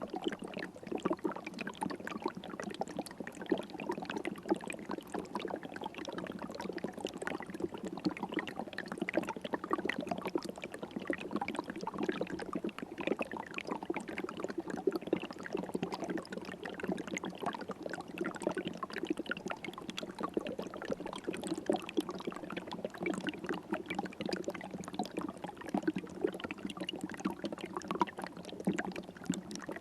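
River water flowing and babbling steadily over rocks, a continuous splashing and gurgling.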